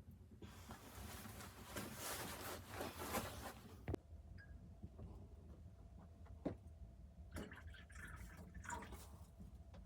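Liquid being poured for about three seconds, stopping abruptly with a click, followed by a few light clicks and brief handling noises.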